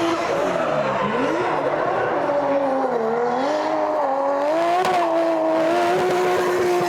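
Drift car's engine at high revs, its pitch dipping sharply about a second in and again around three seconds as the driver comes off and back on the throttle, then climbing and holding high through a slide.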